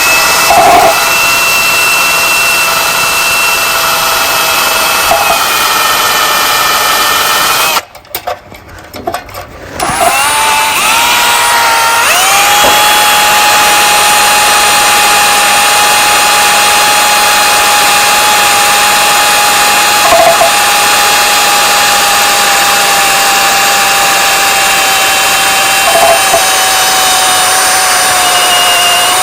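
Electric drill boring a hole in the minibike's stamped metal: a steady motor whine that stops about eight seconds in, then spins back up with a rising whine around ten seconds in and holds steady.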